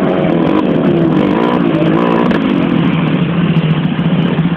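Motocross dirt bike engine running and revving, its pitch rising and falling.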